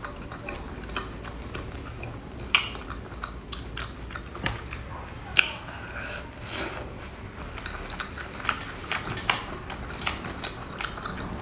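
Close-miked chewing and biting as a person eats skewered sea snail meat, with wet mouth sounds and a handful of sharp clicks spread through.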